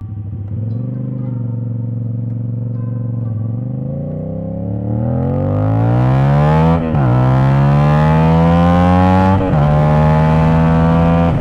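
CFMoto 450SS motorcycle engine through an aftermarket exhaust, accelerating under load. The revs climb for a few seconds, dip briefly at a gear change about seven seconds in and again about two and a half seconds later, then hold steady.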